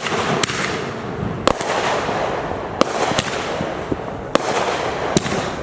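Fireworks going off: a continuous crackle with sharp bangs cutting through it about once a second.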